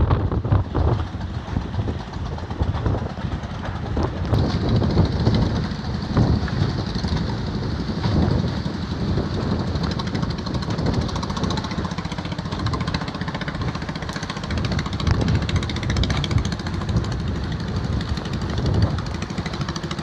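Strong gusty wind buffeting the microphone, with uneven low rumbling gusts over a steady rushing hiss.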